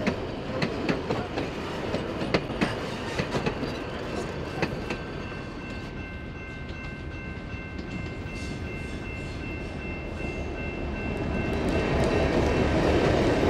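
A train's carriages roll past with the wheels clicking sharply over the rail joints. The clicks thin out after about five seconds; a faint steady chord of high tones then holds for several seconds, and a louder train rumble builds near the end.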